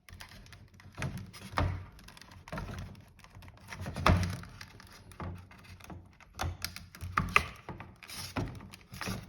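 Irregular plastic clicks and knocks from hands pushing and fitting parts of a refrigerator's ice-maker water pump assembly back into place, with a few louder knocks.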